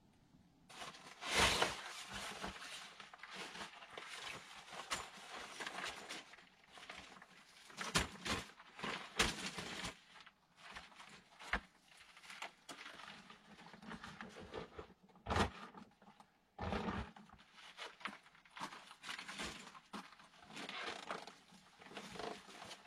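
Irregular rustling, scuffing and a few sharp knocks of a person moving about and handling gear such as a folding camp chair, louder knocks about a second and a half in and again about two-thirds of the way through.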